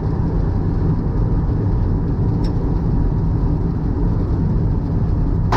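Twin-engine Mazda MX-3 driving on the road, heard from inside the car as a steady low rumble, with one sharp click near the end.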